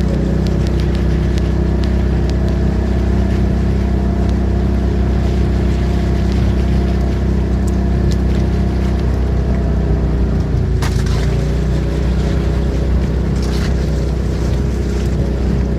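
An engine running steadily at a constant speed, with a couple of brief rustling or scraping noises about eleven and thirteen seconds in.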